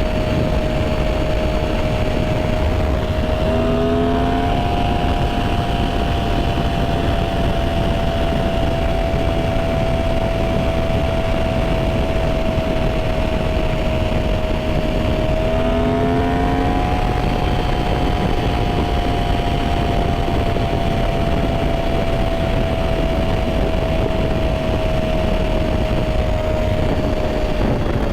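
Yamaha R1 sport bike's inline-four engine holding a steady cruising note under heavy wind noise, the note rising briefly about four seconds in and again about sixteen seconds in as the throttle is opened, then easing slowly down.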